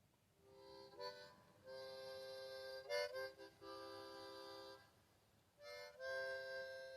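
Harmonica playing held chords in short phrases. It starts about half a second in and pauses briefly twice.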